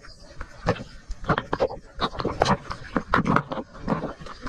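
A person breathing hard in short, irregular gasps and pants.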